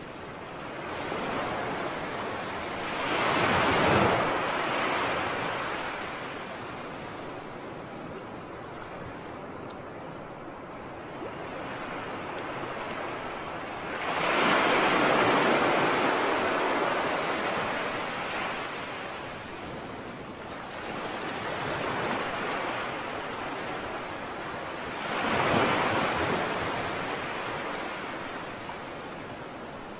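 Sea surf: waves breaking in three big swells about eleven seconds apart, with a steady wash of water between them.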